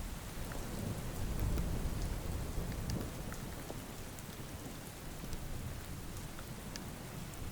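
Steady rain falling, with scattered sharp drips and a low thunder rumble that swells about a second in and fades over the next couple of seconds.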